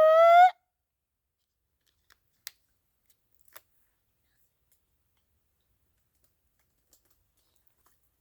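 The end of a person's Bigfoot call: a long, high-pitched held howl that wavers slightly in pitch and cuts off about half a second in. Then quiet, with two faint clicks.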